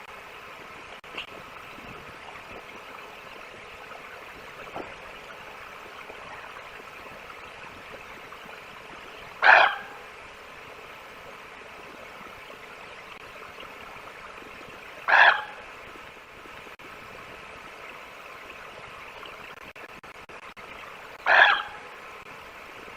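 Three short, harsh calls about six seconds apart, typical of a common raven croaking, over a steady hiss.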